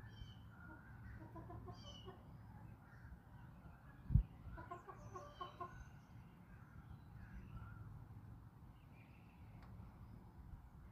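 Backyard chickens clucking softly in two short runs, with small birds chirping higher up. A dull low thump about four seconds in is the loudest moment.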